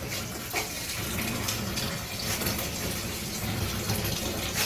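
Water running steadily into a bathtub, an even rush without a break.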